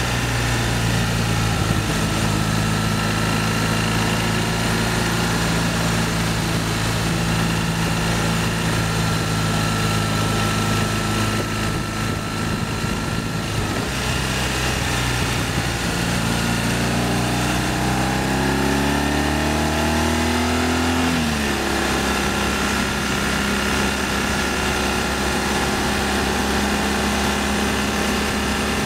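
BMW R1200ST's boxer twin engine running steadily under way, over wind and road noise. Past the middle the engine note climbs for several seconds as the bike accelerates, then drops suddenly at a gear change, and runs steadily again.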